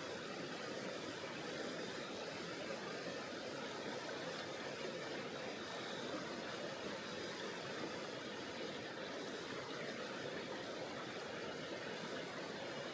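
Mountain river flowing: a steady, even rush of water over rocks.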